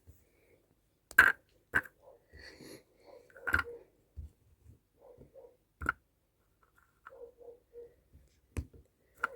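Flattened sand crunching and crumbling as it is worked, with six or so sharp, crisp cracks spaced irregularly and soft crackling in between.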